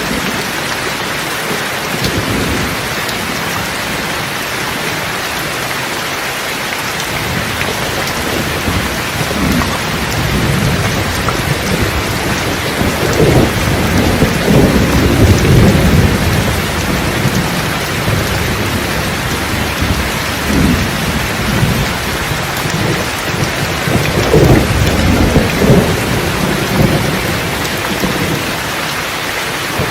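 Steady rain falling, with two rolls of thunder rumbling under it: a long one that builds from about a quarter of the way in and peaks near the middle, and a shorter one a few seconds before the end.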